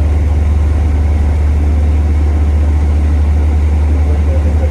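A bus heater running on the upper deck of a double-decker bus: a loud, steady low hum with a fast flutter in it.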